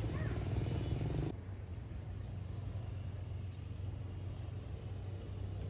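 Motorcycle engine running with a steady low hum; about a second in, the louder, busier engine noise cuts off abruptly and the quieter hum carries on.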